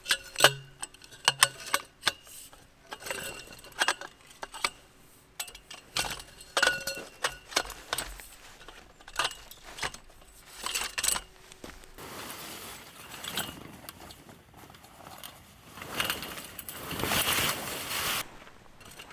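Metal pieces clinking and knocking against each other over and over, several with a short ring; then, over the last several seconds, a rustling, hissing noise that swells and cuts off suddenly.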